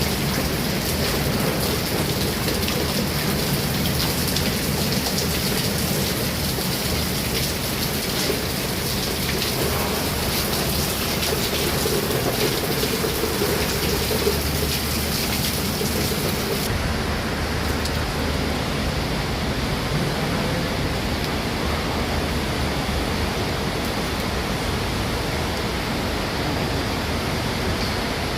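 Heavy rain falling steadily, a dense even hiss of drops. About two-thirds of the way through the sound turns duller as its highest hiss drops away.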